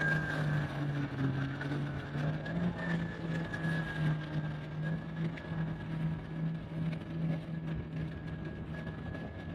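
Jet ski engine running at a steady speed, its low engine note pulsing evenly under a steady high whine.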